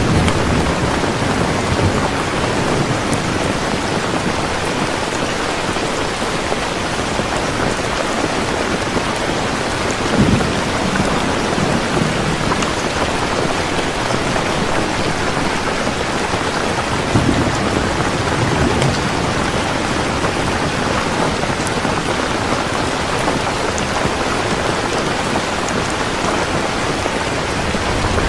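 Heavy rain falling steadily, with low thunder rumbles rolling in about ten seconds in and again at about seventeen seconds.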